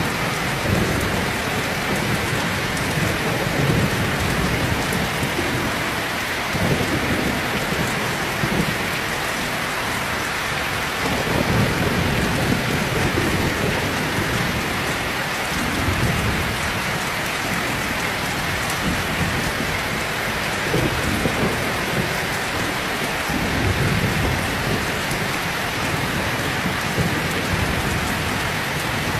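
Heavy rain pouring steadily, a dense even hiss, with low rolling thunder rumbling up and fading away several times.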